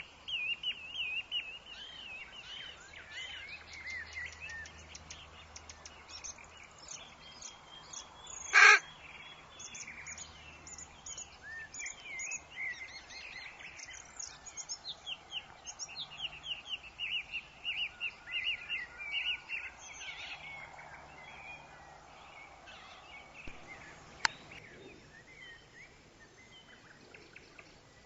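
Several woodland birds chirping in quick repeated notes and trills, with one loud, short, harsh call about a third of the way in and a single sharp click near the end.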